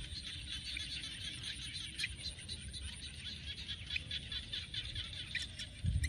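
Small birds chirping, many quick high chirps overlapping continuously, over a low rumble.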